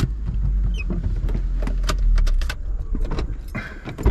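A 7th-generation Honda Accord's K-series engine running at low speed as the car is driven slowly up to raise it for an oil change, with clicks and knocks over the rumble. The rumble eases about two and a half seconds in as the car comes to a stop.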